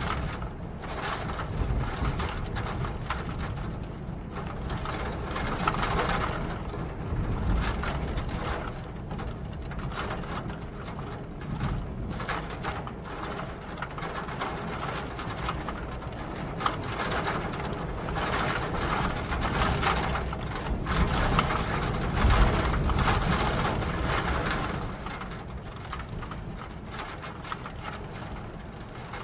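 Rain pattering in a dense stream of fine, rapid drops over a steady low rumble, swelling and easing in waves.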